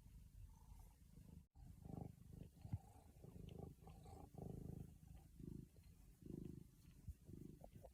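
A cat purring close up in low, rhythmic swells that rise and fall with its breathing. A brief cut in the sound comes about a second and a half in.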